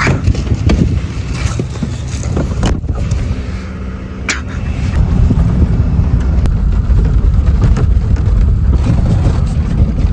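Vehicle driving on a snowy road: a steady low engine and drivetrain rumble with a few knocks, getting louder about five seconds in as it picks up speed.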